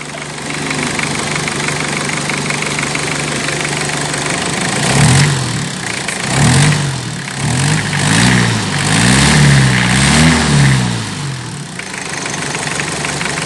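Toyota 1C four-cylinder diesel engine idling steadily, then given a series of quick throttle blips that rise and fall in pitch through the middle, before settling back to idle. This is a test run after repair of hard starting and shaking, and the engine is judged quiet now.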